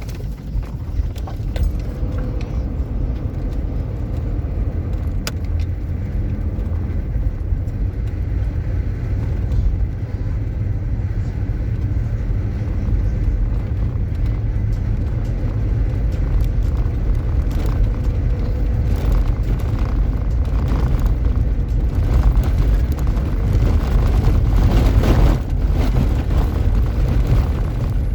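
Vehicle driving: a steady, loud low rumble with scattered clicks and rattles, swelling a little louder a few seconds before the end.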